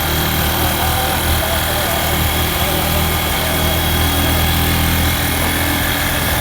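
Motorcycle engine running steadily as the bike rides along, a constant low hum with wind rushing across the microphone.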